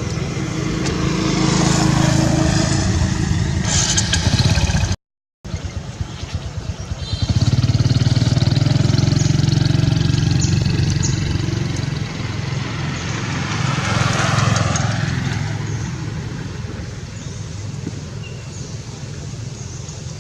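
A motor vehicle engine running steadily, swelling louder twice. The sound drops out for a moment about five seconds in.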